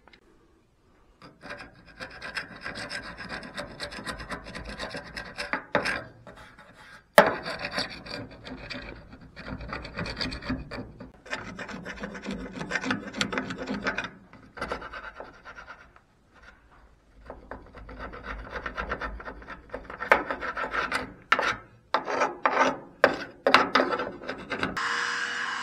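Hand scrubbing and scraping of old weatherstrip glue residue on the steel door edge of a 1968 Ford F250 pickup: irregular back-and-forth rubbing strokes in runs with short pauses and a sharp click about seven seconds in. A steady hum starts just before the end.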